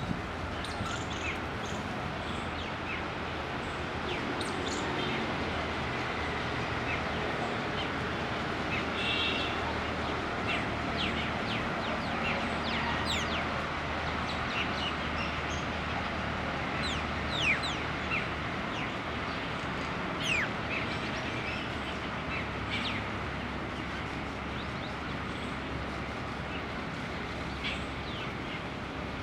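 Birds calling: scattered short, high chirps that fall steeply in pitch, repeated irregularly throughout, over a steady low background noise.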